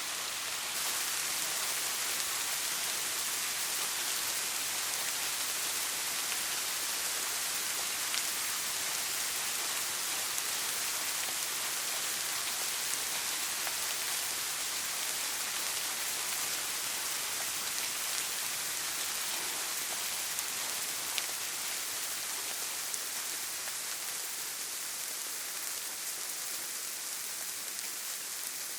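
Steady rain falling, a continuous hiss with scattered faint drop ticks, easing slightly near the end.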